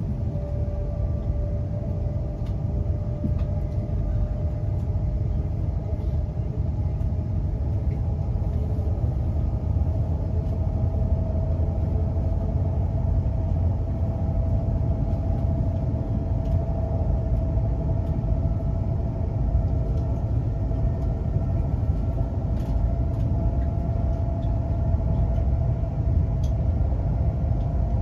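Class 350 Desiro electric multiple unit running at speed, heard from inside the passenger saloon: a steady low rumble from wheels and track, with a faint whine that slowly rises in pitch.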